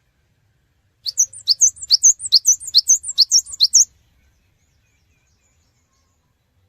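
Cinereous tit (gelatik batu) singing a fast run of high, sharp chirping notes, about three or four a second, starting about a second in and stopping after about three seconds.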